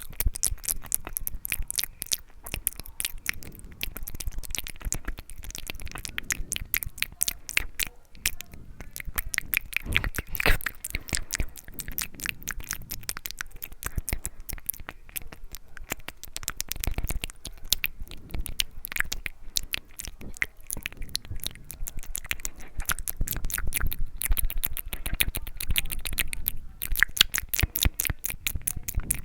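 ASMR mouth sounds: a continuous, rapid stream of clicks and smacks from the lips and tongue, many a second.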